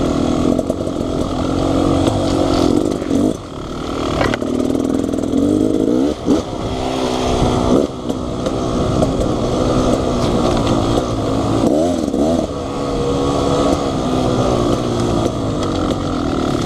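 Dirt bike engine running close by, mostly idling, with several short throttle blips that sweep the pitch up, about four, six, eight and twelve seconds in.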